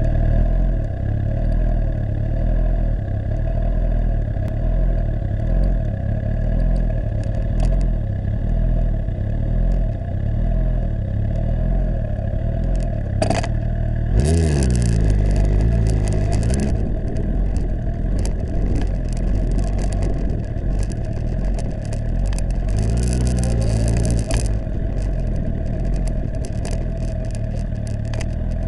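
Suzuki GSX-R1000 K7's inline-four engine running with a steady low rumble, its pitch dipping and rising as the bike pulls away and changes speed, once about halfway through and again about two-thirds of the way in.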